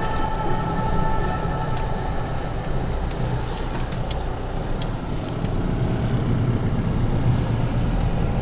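Steady engine and road noise of a vehicle driving along a road, a continuous low rumble.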